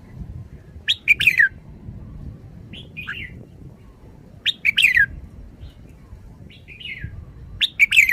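Red-whiskered bulbul singing: three short, loud phrases of quick whistled notes with falling slurs, about every three and a half seconds, with softer single calls between them.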